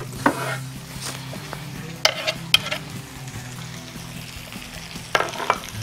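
Chicken sizzling in a grill pan, with several sharp knocks and clinks of cookware being handled.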